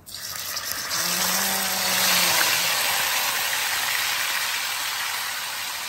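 Marinated chicken pieces going into hot oil with whole spices in a wok, setting off a sudden loud sizzle of frying that peaks about two seconds in and then slowly eases.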